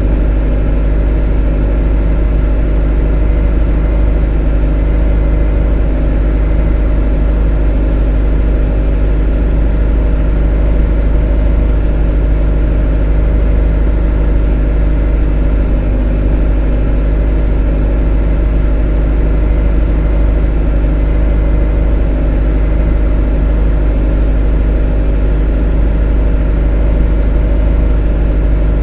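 A motor running steadily at an even speed, like an engine idling: a constant drone of several steady tones, strongest in the deep low end, with no change in pitch or loudness.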